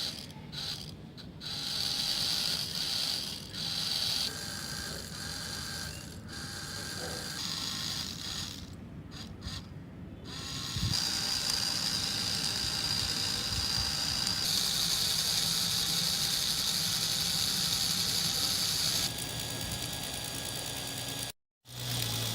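Small electric motor and gears of a homemade mini tractor chaff cutter model whirring steadily. The whine changes abruptly in pitch and loudness several times, and there is a brief dropout near the end.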